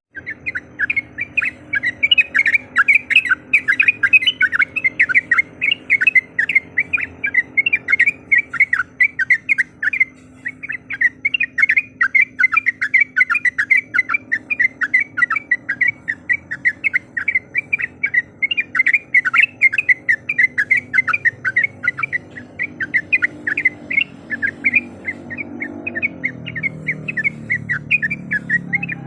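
Yellow-vented bulbul (trucuk) singing a long, rapid, unbroken run of bubbling, chattering notes, many to the second. This is the full-voiced calling song that bird keepers play to provoke rival bulbuls.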